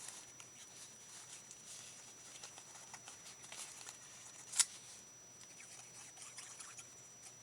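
Faint rustling and light tapping of paper and craft pieces being handled, with one sharp click about four and a half seconds in.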